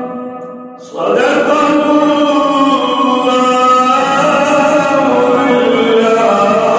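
A male reciter chanting the Quran in the melodic tajweed style: a held note fades, then about a second in a new long, slowly winding melodic phrase begins.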